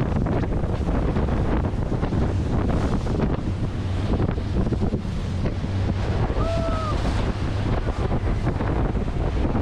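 Wind buffeting the microphone on a moving tour boat, over the steady rush of water and the boat's motor. A short, high-pitched call is heard a little past the middle.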